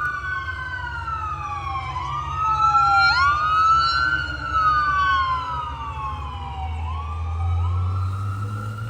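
Fire engine passing with its wail sirens sounding: two siren tones sweep slowly up and down, out of step with each other, over the low rumble of the truck's engine. The engine rumble grows louder near the end as the truck comes closer.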